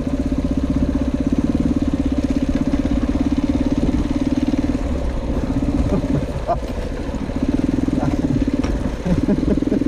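Motorcycle engine idling with a fast, even pulse. It fades for a couple of seconds in the middle and picks up again near the end.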